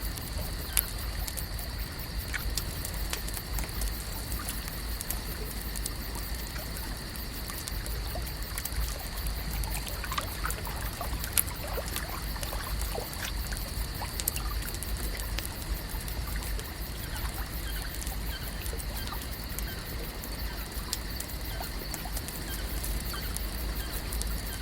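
Lakeside ambience: water trickling and lapping with many small scattered ticks and drips, over a steady high-pitched hum and a low rumble.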